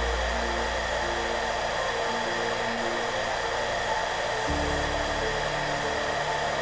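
Hairdryer running steadily, a constant even blowing hiss, with soft background music with low notes underneath.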